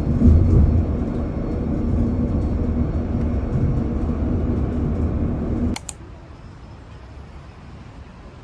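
Loud, steady low rumble of a moving vehicle, with a faint hum. It cuts off abruptly with a click about six seconds in, giving way to a much quieter background.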